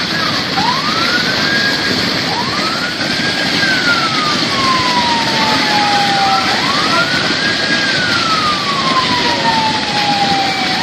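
Emergency vehicle siren wailing: each cycle rises quickly in pitch and then falls slowly, repeating about three times. It sounds over a loud, steady rushing noise.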